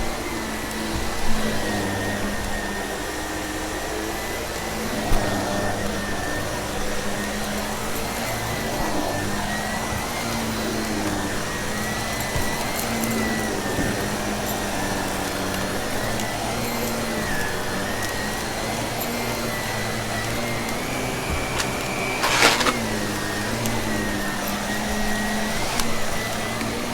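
Vacuum cleaner running steadily, its motor pitch dipping and rising as it is pushed back and forth over carpet. There are a few small clicks and one sharp crack about 22 seconds in.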